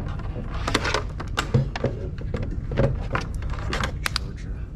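Irregular clicks and knocks of objects being handled and set down, over a steady low hum.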